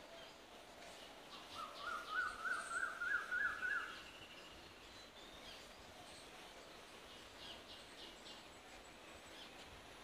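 A bird calling: a quick run of about eight short rising notes, starting about a second and a half in and lasting some two seconds, the run climbing a little in pitch. Fainter chirps of other birds come and go around it.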